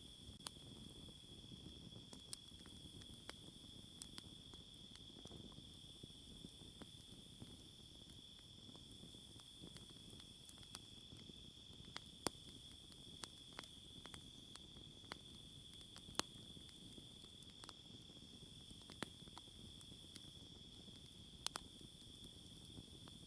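Campfire crackling faintly, with scattered sharp pops, the loudest about 12 and 16 seconds in, over a steady high insect chorus.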